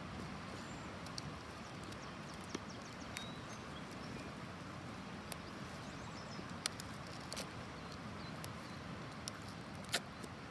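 Soft rustling and scattered small clicks from handling and taping the paper-capped end of a rice-filled cardboard tube rain stick.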